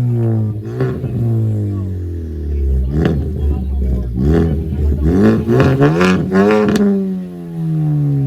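A car or truck engine being revved in a string of quick blips, each climbing and falling back. The blips come faster and closer together about five to seven seconds in, then the engine winds down towards idle.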